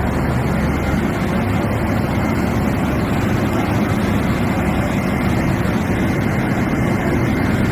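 Railway locomotive running, a loud steady mechanical noise with a deep hum at the bottom that eases slightly about a second in.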